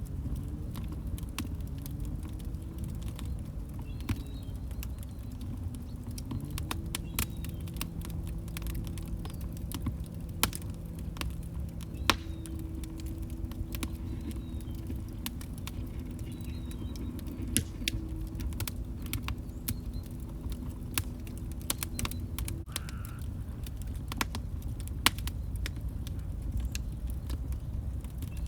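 Log fire crackling: frequent, irregular sharp pops and snaps over a low, steady rumble of the burning.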